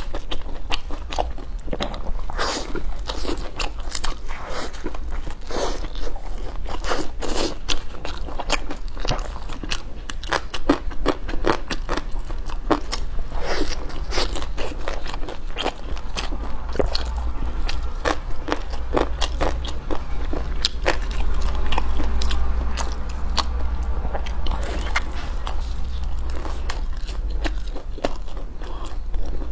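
Close-miked eating of green onion pancake: steady biting and chewing with dense, irregular crunches and crackles, over a low steady hum.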